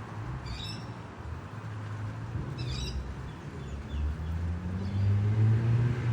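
Two short bursts of bird chirping over the low hum of road traffic, with a car engine approaching and getting louder near the end.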